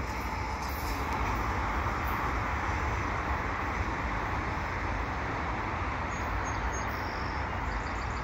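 Steady rumble of a double-stack intermodal freight train receding, its rear distributed-power locomotive, a GE ET44AC, pulling away. A few faint high bird chirps come in about six seconds in.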